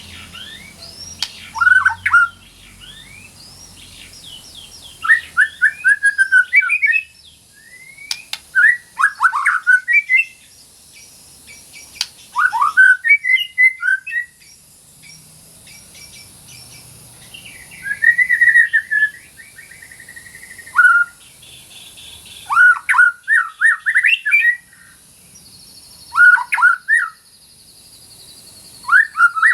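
White-rumped shama (murai batu) singing in full voice: a series of loud whistled song phrases, each a second or two long, with short pauses between them.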